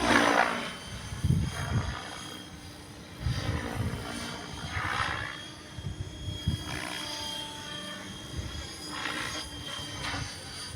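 Radio-controlled model airplane's motor and propeller whining as it flies past, swelling and sweeping in pitch three times, with wind gusting on the microphone.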